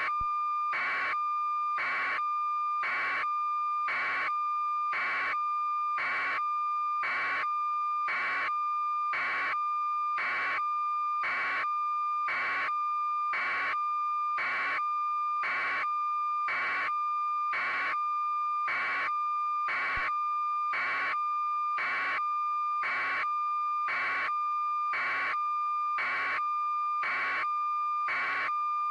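Steady electronic tone with a beep pulsing evenly about once a second, unchanging throughout, like a broadcast feed's test or standby signal.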